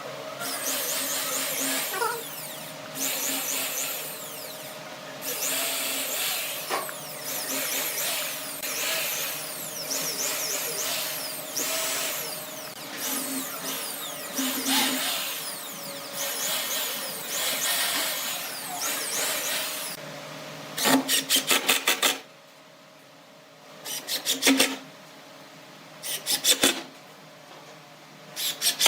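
Power tools working wood. For about twenty seconds there is a continuous, shifting machining noise. Then come four short bursts of rapid, evenly spaced strokes, about eight a second, with pauses between them.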